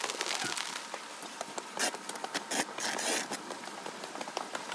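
Rain: irregular drips and taps close by over a steady hiss.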